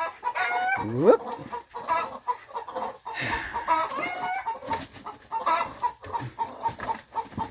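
Peahen clucking while her peachicks peep in a steady run of short chirps.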